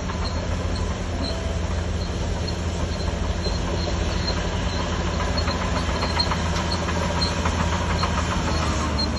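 Shantui DH17C3 crawler bulldozer's diesel engine running steadily under load, with a rapid metallic clatter from about five seconds in.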